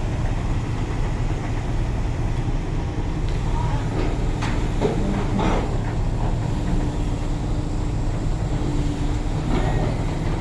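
Truck engine running with a steady low rumble, and a few clicks and rattles about halfway through.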